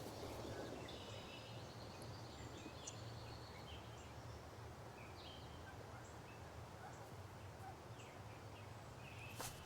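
Faint forest ambience: scattered distant bird chirps over a low steady rumble, with a sharp click near the end.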